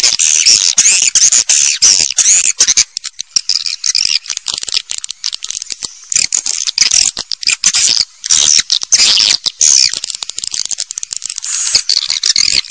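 Swiftlet calls: a dense, continuous chorus of high twittering chirps mixed with rapid clicking, the kind of call recording played to lure swiftlets into a nesting house.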